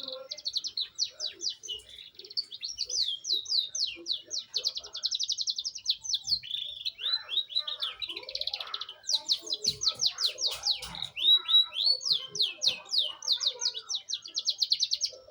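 Young domestic canary singing a continuous run of rapid trills, each phrase a quick repetition of one note before switching to the next, some faster and some slower. These are the rolling phrases of a juvenile canary just beginning to sing in rolls.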